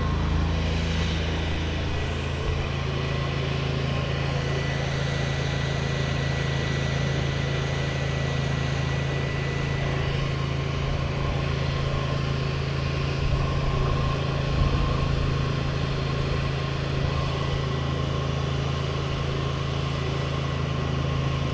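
An engine running steadily at constant speed: an even low drone with a faint steady high whine above it.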